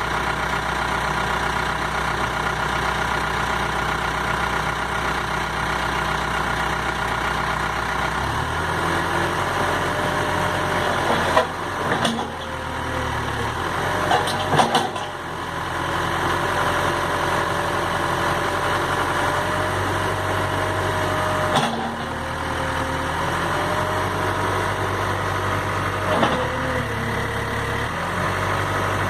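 Case 580 Super M Series 2 backhoe loader's four-cylinder diesel engine running, its note changing about eight seconds in. A wavering whine rides over it later on, and there are a handful of sharp knocks and clunks along the way.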